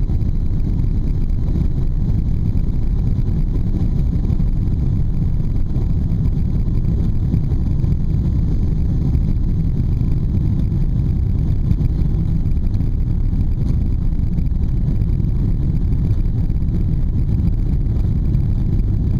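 Boeing 777-200ER on takeoff: a steady low rumble of jet engines and airflow, even in level throughout.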